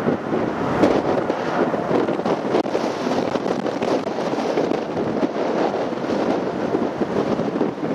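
Strong gusty wind buffeting the microphone: a steady, rumbling rush that swells and dips.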